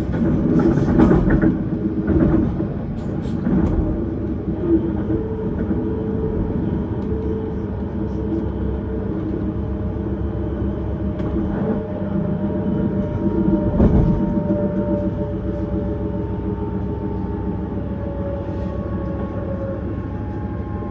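Vienna S-Bahn electric train running along the track, heard from inside the carriage: a steady rumble of wheels on rail with clattering knocks over rail joints or points about a second in, twice more shortly after, and again near the middle. Near the end a high motor whine slowly falls in pitch.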